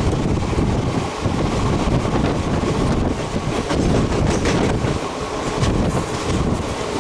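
Express train running at speed on broad-gauge track, heard from on board: a steady rumble of wheels on rail, with wind buffeting the microphone.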